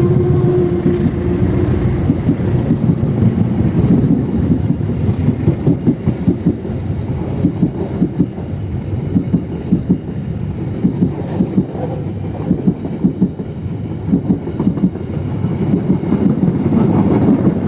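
Passenger train coaches rolling past, with wheels clacking over the rail joints in repeated clusters over a steady rumble.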